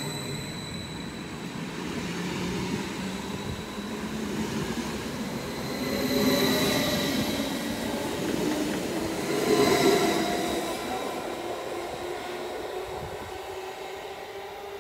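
Vy electric multiple-unit passenger train passing close by on the track and then running away into the distance. Its wheel-and-rail noise swells twice and then fades, over a thin steady high whine.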